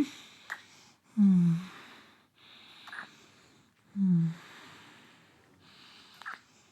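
A person's short wordless vocal sounds, three of them about three seconds apart, each trailing off into a breath, with a few soft mouth clicks between them.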